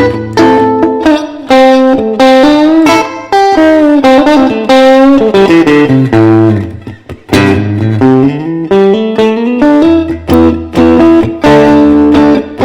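Electric guitar, a Fender Stratocaster, playing a blues instrumental break with bent notes that slide up and down in pitch, over sustained low bass notes.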